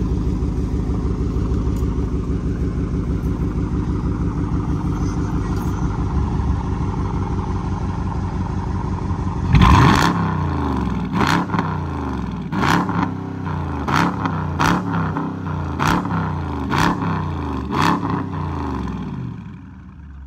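Straight-piped Dodge Challenger R/T's 5.7-litre Hemi V8 idling with a deep, steady exhaust note, then blipped hard about halfway through and revved again in about eight quick blips, each rising and falling, a sound called screaming. The exhaust runs without mufflers, which makes it deeper and louder.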